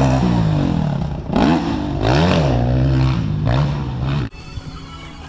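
Motocross motorcycle engines revving, their pitch rising and falling over and over as the bikes accelerate and shift. The engine sound cuts off abruptly about four seconds in, giving way to something much quieter.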